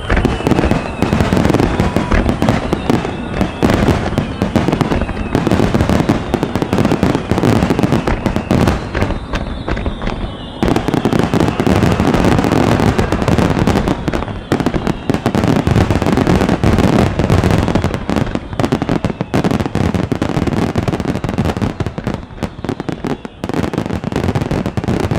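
A star-mine fireworks barrage: shells bursting in rapid, overlapping succession as a dense run of booms and crackles. Falling whistles are heard twice, near the start and around the middle.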